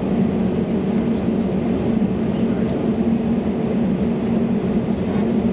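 Steady cabin drone inside an Airbus A320neo on the ground before takeoff: a constant low hum from the aircraft's engines and air systems.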